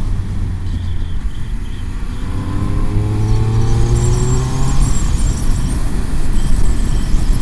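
Motorcycle engine pulling hard, its pitch rising steadily for about three seconds before a gear change, under heavy wind rumble on the riding microphone.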